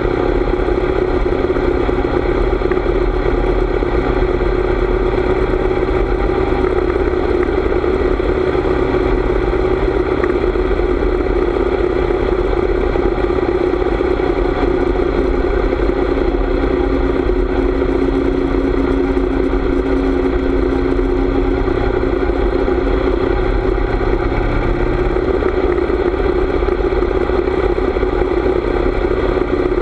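Harley-Davidson V-twin motorcycle engine running at a steady, even pitch during a ride.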